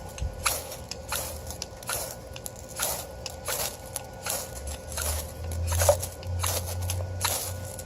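Repeated short, hard scraping strokes of a steel striker run down a ferrocerium fire-starter rod, about one to two a second, throwing sparks to catch a fire.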